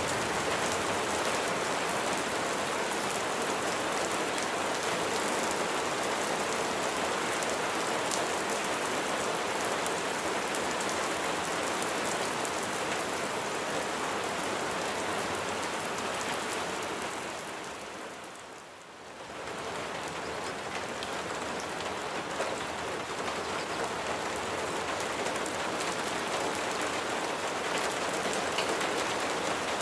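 Steady rain falling. It fades down briefly about two-thirds of the way through, then comes back up to the same level.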